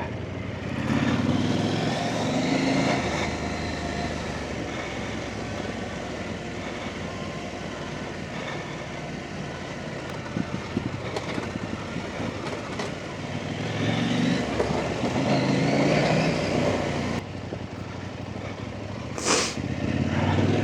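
Off-road trail motorcycle engine running steadily, with the revs rising twice, about a second in and again about fourteen seconds in. A short sharp noise near the end.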